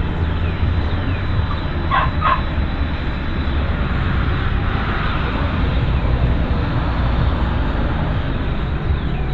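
Outdoor ambience dominated by a steady low rumble. A dog barks twice in quick succession about two seconds in, and faint bird calls come through above.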